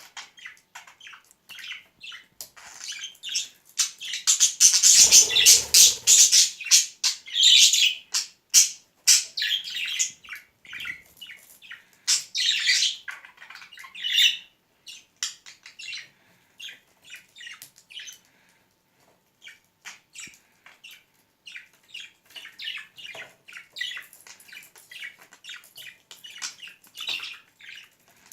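Pet budgerigar chirping and chattering in quick short calls, with a louder noisy stretch about five seconds in.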